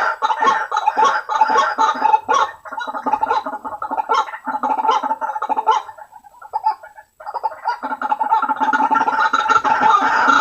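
White-breasted waterhen calling: a rapid run of harsh, repeated croaking notes. The calls thin out about six seconds in and almost stop, then start again in full about two seconds later.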